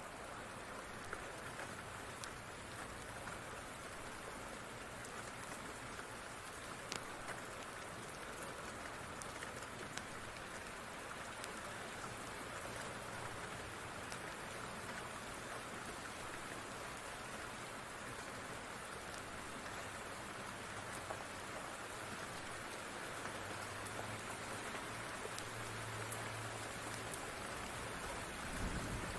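Steady rain falling and pattering on a surface, with scattered faint ticks. A brief low thump comes near the end.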